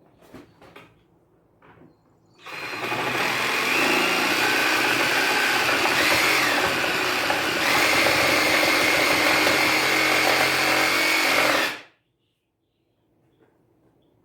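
Handheld power tool cutting, which starts after a few light clicks and runs for about nine seconds. Its high whine dips in pitch briefly under load, then it stops abruptly.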